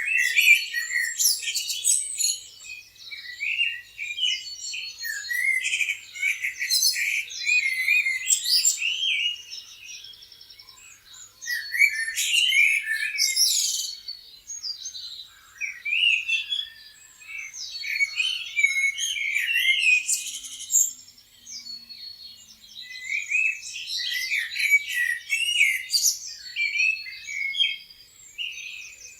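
Several songbirds chirping and singing in quick overlapping phrases, in clusters with brief lulls about ten seconds in and again a little past twenty seconds.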